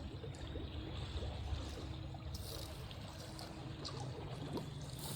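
Shallow river water trickling over rocks: a steady, faint rushing with a few small ticks.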